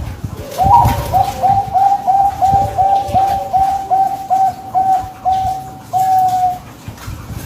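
Zebra dove (perkutut) singing: a rapid series of about a dozen short, clipped cooing notes on one pitch, slowing slightly and ending on a longer held note.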